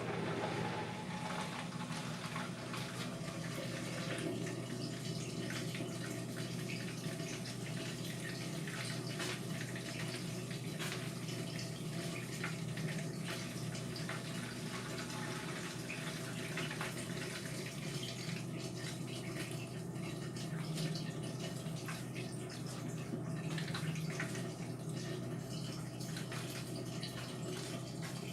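Indesit washing machine partway through a cotton wash, with water running and sloshing inside it over a steady low hum.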